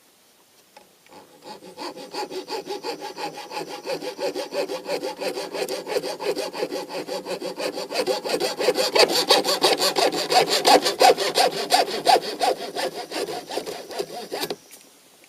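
Hacksaw cutting through a fishing rod blank, with rapid, even back-and-forth strokes. It gets louder about halfway through and stops suddenly near the end as the cut is finished.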